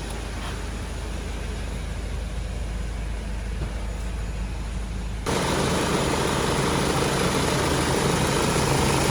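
Hyundai H1 van engine idling steadily with a low hum. About five seconds in, the sound jumps abruptly louder and brighter and then holds steady.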